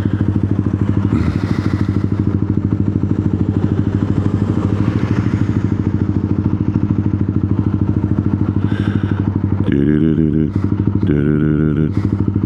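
125cc motorcycle engine running at low revs with a steady pulsing beat while the bike creeps along in traffic.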